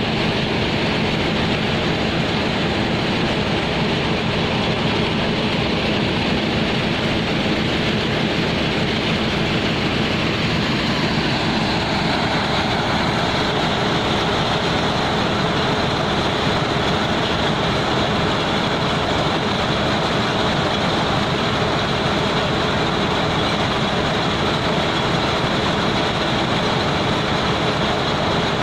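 Heavy machinery running steadily: a continuous loud rumble with a faint steady hum under it. About twelve seconds in, the noise turns brighter and harsher.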